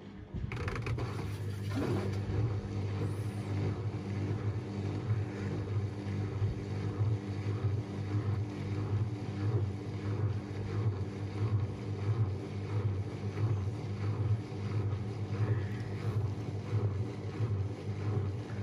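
Washing machine running a bedding wash on its down programme: a steady, slightly pulsing low hum with a rushing water-like noise, starting about half a second in.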